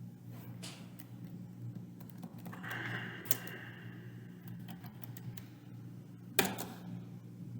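Typing on a computer keyboard: irregular key clicks with one louder keystroke about six seconds in, over a low steady hum.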